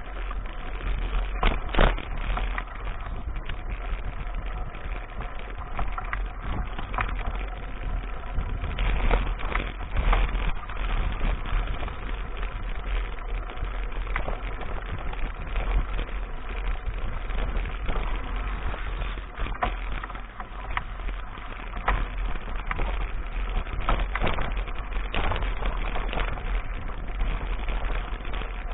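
Riding a mountain bike over a rough dirt track: wind rumbling on the action camera's microphone, with frequent knocks and rattles from the bike on uneven ground.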